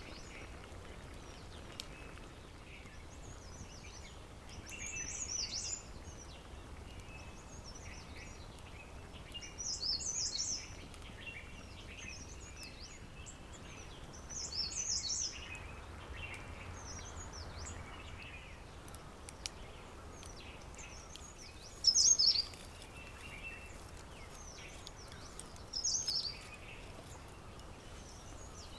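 Wild birdsong: one bird repeating a short, high, falling song phrase about every five seconds, loudest about three-quarters of the way through, with fainter chirping of other birds in between over a faint steady outdoor hiss.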